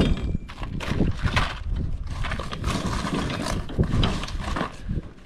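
Irregular knocking and rustling of cardboard packaging and new combine knife sections being handled and unpacked.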